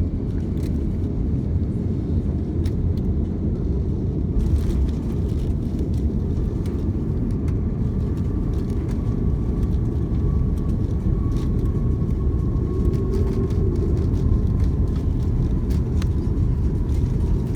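Steady low rumble of an Airbus A330 airliner on its landing approach, with a faint thin whine that slowly falls in pitch through the second half and a few light clicks.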